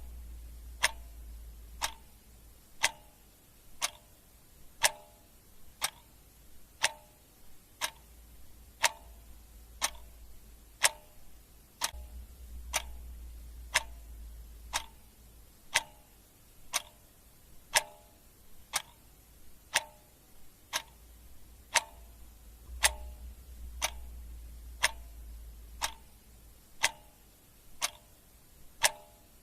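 Clock ticking at a steady one tick a second, each tick a sharp click with a short ring. A faint low hum swells and fades underneath.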